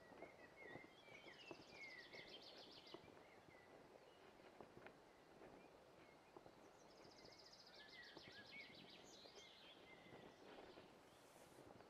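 Faint songbird song: two phrases about five seconds apart, each a warbling run with a fast, high trill.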